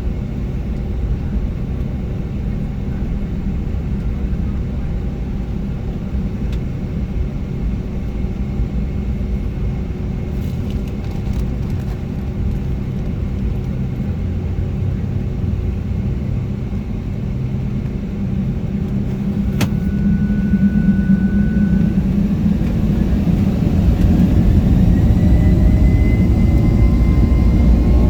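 Jet engine and cabin rumble heard inside a Boeing 757-300's passenger cabin. It is steady at first, grows louder about two-thirds of the way through, and near the end a whine rises in pitch as the engines spool up.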